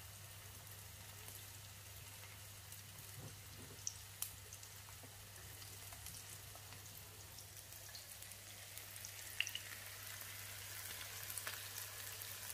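Syrniki (cottage-cheese patties) frying in hot oil in a frying pan: a faint, steady sizzle with scattered small pops, getting a little busier toward the end.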